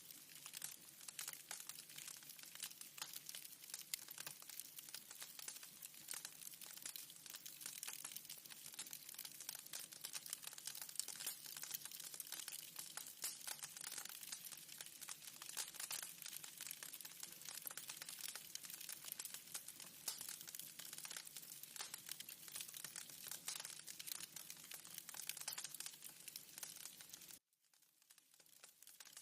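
Wood fire crackling in a fireplace, a dense run of irregular pops and snaps. It cuts out abruptly near the end and resumes about a second later.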